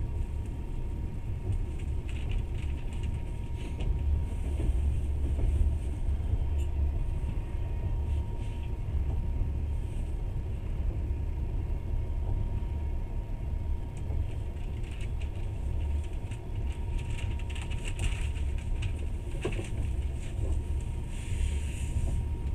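Moving passenger train heard from inside the carriage: a steady low rumble from the running gear on the rails, with scattered light rattles and clicks, more of them in the second half.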